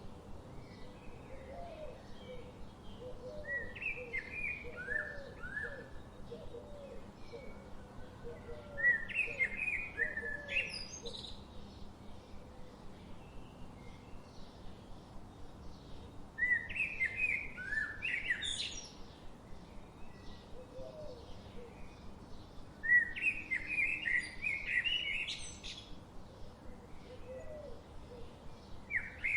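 Forest birdsong: one bird repeats a short song phrase about every six to seven seconds, a run of falling notes that ends in a quick rising sweep. Softer, lower notes and a steady hiss sit beneath it.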